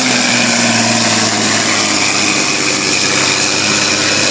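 Pulling truck's diesel engine running hard under load as it drags the sled, its pitch sagging slightly near the start. A thin high whine sets in about halfway.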